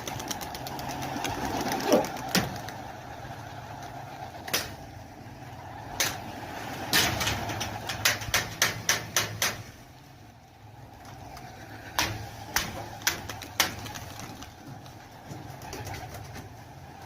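Domestic pigeons cooing, with sharp clicks or claps at irregular moments, a quick run of them around the middle and a few more later on.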